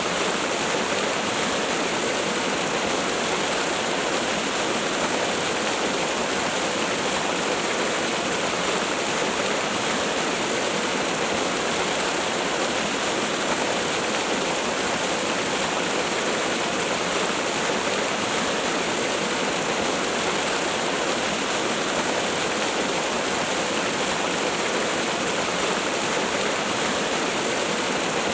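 Waterfall: water falling and splashing in a steady, even rush, with little deep rumble.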